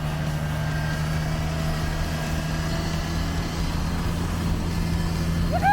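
Truck engine running at a steady speed while driving a truck on homebuilt snow tracks up a snowy hill. Near the end a voice starts a short rising exclamation.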